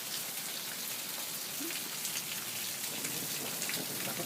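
Steady rain with drips running off a roof edge: an even hiss scattered with the ticks of single drops striking.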